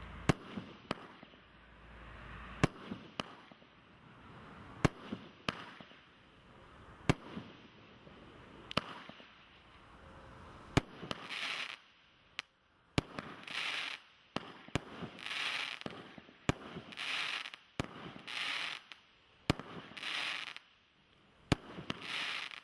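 The Leveller 98-shot firework barrage firing its tubes: sharp bangs every second or two. From about halfway through, each bang is followed by a hissing burst lasting about a second.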